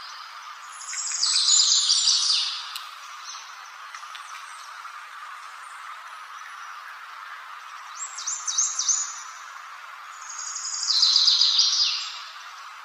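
A songbird singing: two loud phrases of rapid high notes, one about a second in and one near the end, with a shorter run of quick falling notes between them, over a steady background hiss.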